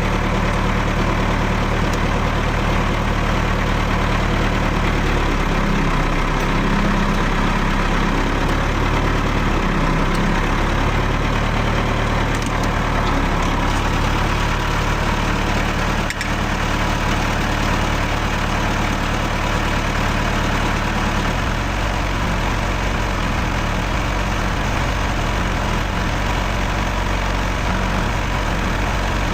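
John Deere tractor engine running steadily, its note shifting a few seconds in and changing again about two-thirds of the way through.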